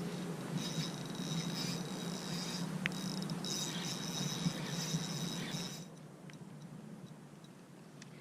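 Insects calling in a steady high buzz with a pulsing shimmer above it, over a low steady hum. Both stop abruptly a little under six seconds in, leaving only faint background.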